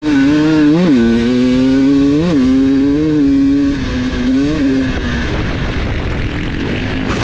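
GasGas enduro motorcycle's engine running on the throttle, briefly revving up and settling back three times. After about five seconds its note fades under a rough rushing noise.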